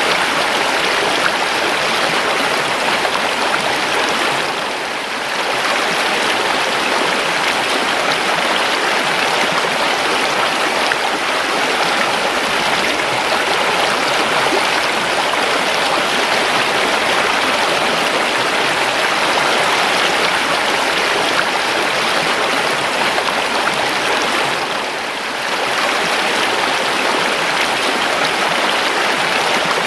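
River water flowing in a steady rush, with two brief dips in level, about five seconds in and again near twenty-five seconds.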